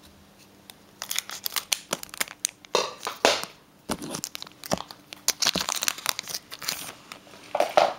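Foil booster-pack wrapper crinkling and tearing in quick, irregular crackles as a Pokémon card pack is opened, starting about a second in.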